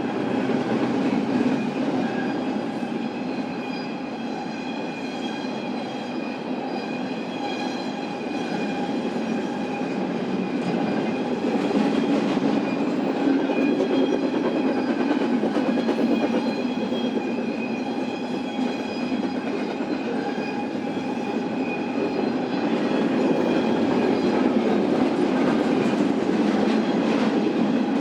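Cars of a long intermodal freight train rolling past on the rails: a steady rumble and clatter of steel wheels, with steady high ringing tones from the wheels over it, swelling louder twice.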